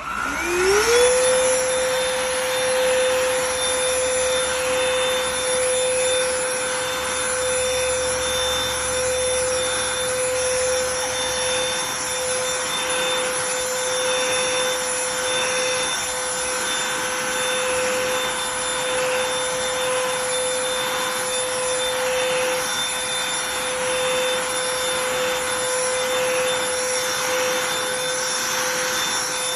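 BLACK+DECKER Dustbuster cordless handheld pet vacuum switched on, its motor whining up to speed within about a second, then running steadily.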